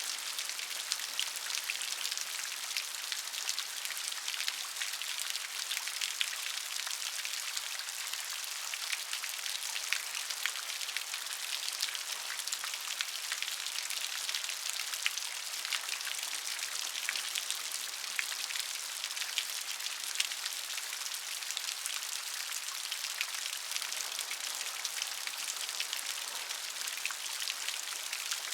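Steady rainfall, dense raindrops pattering with many small distinct drop ticks over an even hiss.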